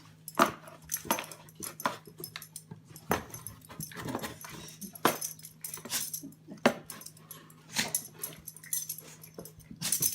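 A dog making short, irregular sounds, with sharp clicks and knocks among them, over a steady low hum.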